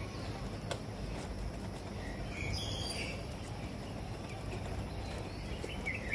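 Outdoor background noise, a steady low rumble, with a few short high bird chirps about two and a half seconds in.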